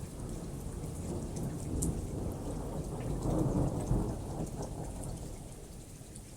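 A long roll of thunder over steady rainfall: the deep rumble comes in abruptly at the start, swells to its loudest about three to four seconds in, and fades away by the end, with the patter of raindrops going on throughout.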